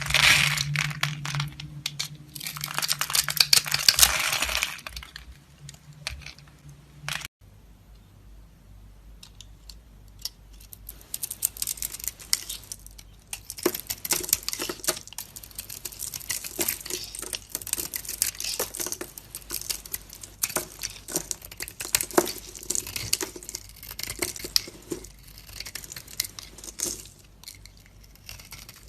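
A knife cutting and scraping dry soap: dense, crisp crackling, loudest in the first five seconds. After a sudden break about seven seconds in, a fainter run of crackles and small clicks follows.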